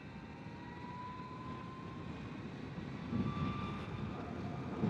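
Energica Experia electric motorcycle's motor whining faintly, its pitch rising slowly as the bike picks up speed, over a low rumble of wind and road noise.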